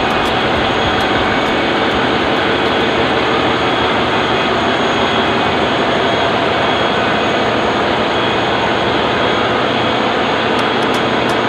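Loud, steady din of a ship's engine room machinery running, with a few faint steady tones through it.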